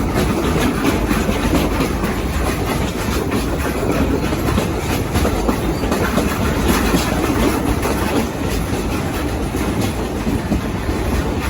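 Steam-hauled passenger train running along the track, its cars rattling and clacking steadily.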